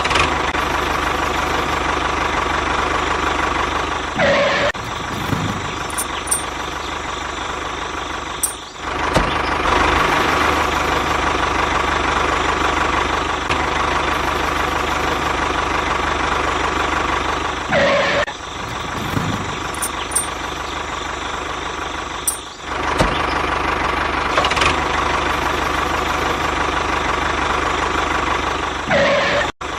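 Small motor of a DIY mini tractor or bulldozer running steadily, with a buzzy mechanical drone and a few brief breaks.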